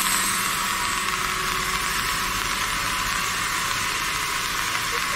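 Heavy rain hissing steadily, with an engine running low underneath. A short knock comes right at the end.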